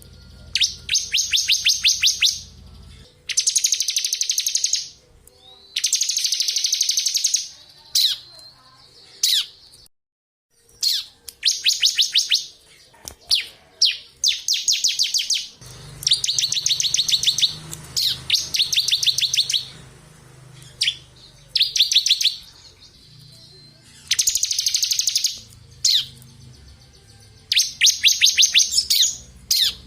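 Bar-winged prinia (ciblek kristal) singing in rapid high trills, each about one to two seconds long, repeated every couple of seconds with short pauses and a few single sharp notes between.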